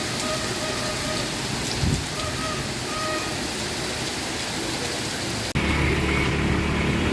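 Heavy rain falling steadily. About five and a half seconds in, the sound cuts abruptly to a steady low engine hum.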